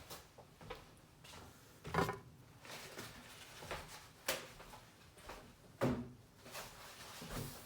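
Refrigerator drawers and shelves being handled, giving a few separate sharp knocks and clunks: about two seconds in, near the middle, about six seconds in and once more near the end.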